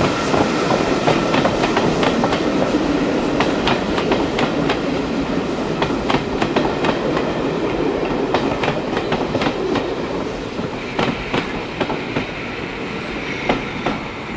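Railway carriages rolling past on jointed track, their wheels clicking sharply and irregularly over the rail joints under a steady rumble. The sound slowly fades toward the end.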